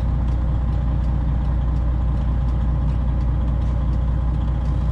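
Straight-piped Detroit Diesel 12.7 L Series 60 engine of a Freightliner Classic XL glider running steadily at low revs, a deep even rumble, as the semi creeps back into a tight spot at the dock.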